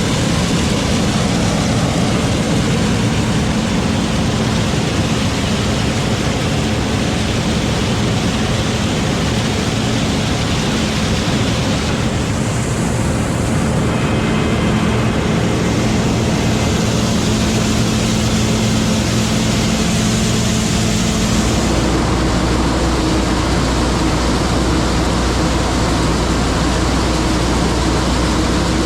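Heavy farm machinery running steadily, a loud engine drone with whirring mechanical tones. About 21 seconds in the note changes and a deeper rumble comes in.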